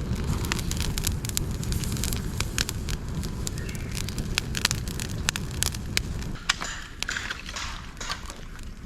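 Campfire of dry bamboo pieces, twigs and leaves crackling in a fire pit stand, with frequent sharp irregular pops over a low rumble. The rumble eases about six and a half seconds in.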